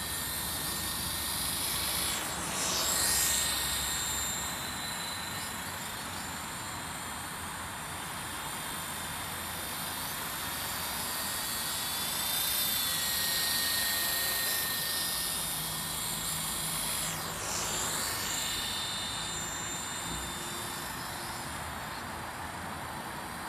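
WLtoys Sky Dancer single-blade radio-controlled helicopter in flight, its electric motor and rotor buzzing steadily with a thin high whine. Twice, about three seconds in and again near eighteen seconds, the pitch sweeps down and back up as it passes close.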